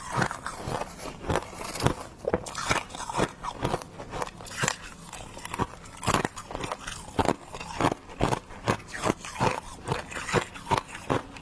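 Freezer frost being bitten and chewed close to the microphone: a quick, irregular run of sharp, icy crunches, about two a second.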